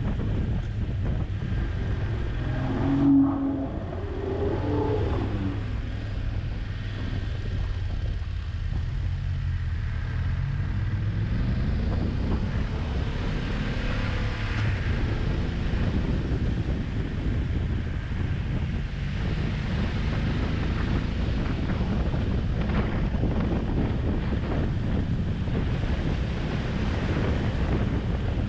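Motorcycle engine running under heavy wind noise on the microphone, its pitch climbing as it accelerates about halfway through. About three seconds in there is a brief louder sound whose pitch falls.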